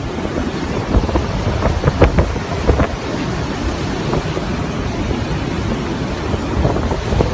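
Hurricane Irma's wind blowing hard in gusts, buffeting the microphone with a deep rumble. Stronger gusts come about one and two seconds in, and it settles into a steadier rush after that.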